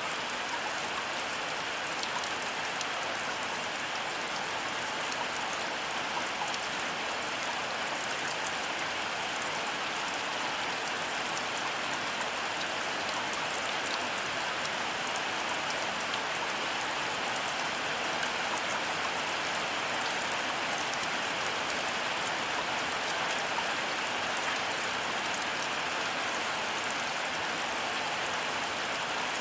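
Heavy rain falling steadily: a dense, even hiss with many sharp ticks of close drops striking surfaces. No thunder sounds in this stretch.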